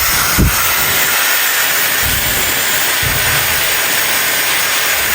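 Dyson hair dryer styler running on its fan setting: a loud, steady rush of air with a faint thin high whine above it. A brief low bump comes about half a second in.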